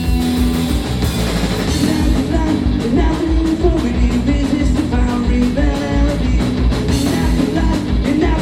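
Punk rock band playing live and loud: distorted electric guitars, bass and fast, driving drums, with a voice singing over them from about two seconds in.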